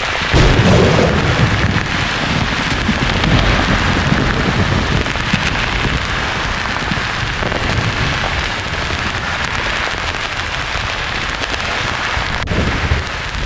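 Thunder rumbling, breaking in suddenly about half a second in and fading away over several seconds, with a shorter low rumble near the end, over a steady hiss of white noise.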